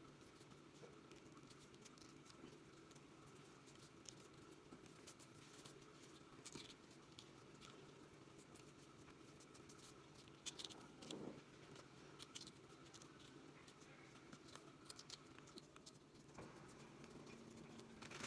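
Near silence: a low steady hum with faint, scattered clicks and taps, a few slightly louder ones about ten seconds in.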